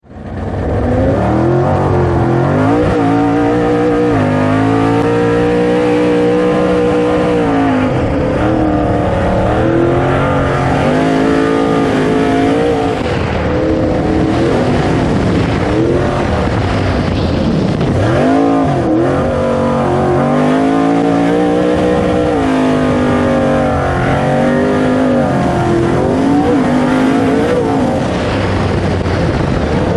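Off-road super truck's 427 Golen V8 engine running hard, its pitch climbing and dropping again and again as the throttle is worked.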